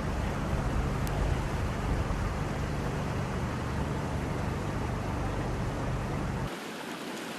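Rushing floodwater, a steady loud rush with a heavy low rumble; about six and a half seconds in the low rumble cuts off abruptly, leaving the higher hiss of running water.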